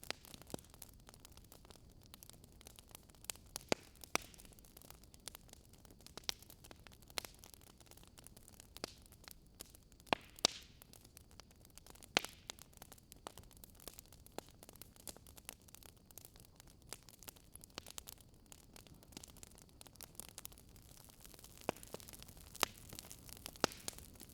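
Campfire burning with a faint steady hiss and irregular crackles and pops of burning wood, a few louder snaps among many small ones.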